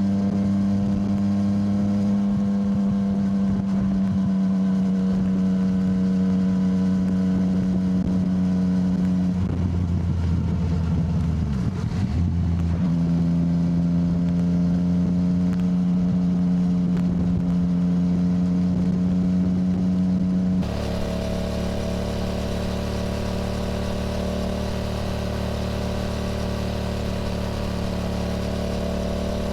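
Yamaha motorcycle engine running at a steady cruise under the rider. About ten seconds in its note briefly drops and comes back. About twenty-one seconds in the tone changes abruptly.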